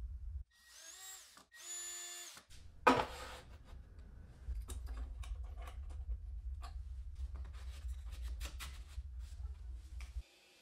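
Power drill run in two short bursts of steady whine, then a sharp knock and a run of irregular clicks and taps of tool work.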